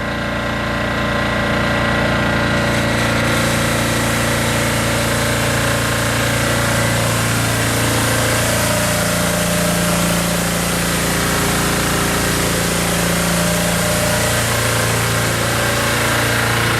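Diesel engine on a Hino Dutro water sprinkler truck running steadily with a clattering note. It builds up over the first couple of seconds, and from about three seconds in a steady hiss joins it.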